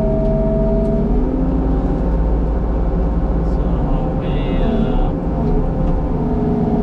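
Skid steer engine running steadily, its note dropping a little about a second in, with a brief higher whine about four seconds in.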